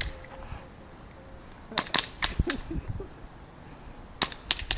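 Airsoft guns firing: sharp snapping shots, a quick run of about four around two seconds in and two or three more near the end.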